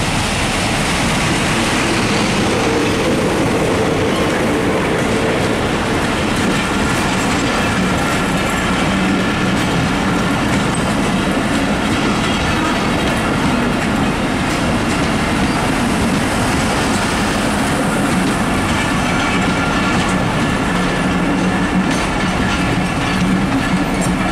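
Diesel-hauled passenger train passing close by: the locomotive goes by first, then the coaches roll past with a steady rumble and the clickety-clack of wheels over rail joints. From about halfway, thin squealing tones from the wheels run over it as the train slows into the station.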